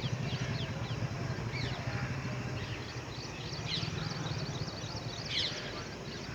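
Birds chirping in many short, quick calls over a steady low hum.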